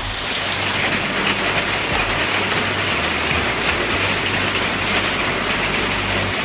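Heavy rain mixed with marble-sized hail falling, a dense steady hiss full of small rapid hits.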